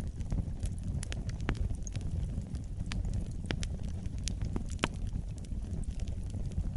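Wood fire in a fireplace crackling: irregular sharp pops and snaps, a few louder than the rest, over a steady low rumble of the flames.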